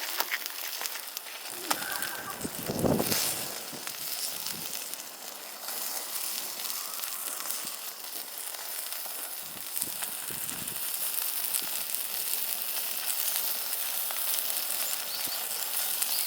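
Food sizzling steadily on a grill, with a brief louder low rumble about three seconds in.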